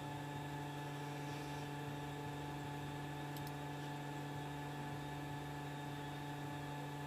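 Steady electrical hum of several fixed tones over a faint hiss, with a pair of faint clicks about three and a half seconds in.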